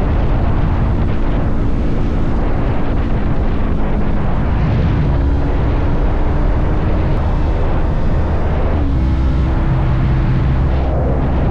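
Motorcycle engine running while riding along at road speed, under heavy wind rumble. The engine note drops about four seconds in, and dips briefly and comes back up near nine seconds.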